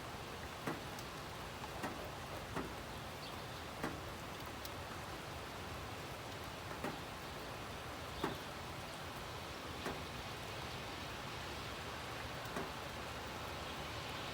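Steady rain falling, an even hiss, with single raindrops ticking sharply close by at irregular moments, roughly every second or two.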